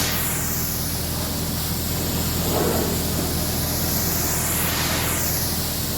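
High-pressure washer jet spraying steadily over a truck, a hiss that sweeps slowly as the wand moves, with a steady low motor hum underneath.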